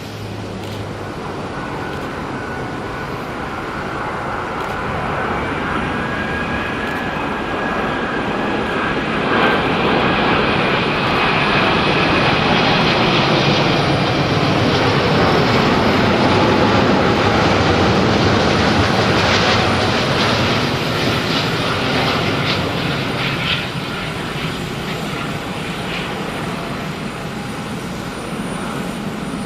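Jet airliner's engines passing, a dense rushing noise with a faint whine that builds to a peak about halfway through and then slowly fades.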